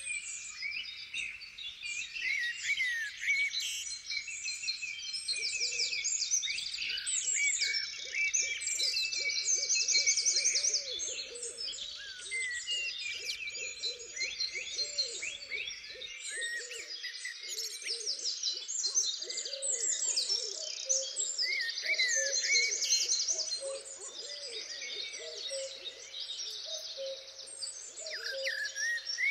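A dense chorus of woodland songbirds, with many overlapping high chirps and trills. A lower-pitched bird keeps calling in quick repeated notes from about five seconds in, steadier and more evenly spaced in the second half.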